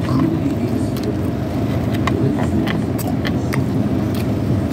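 A steady low rumble of background noise, with scattered short clicks and smacks from chewing a mouthful of sandwich.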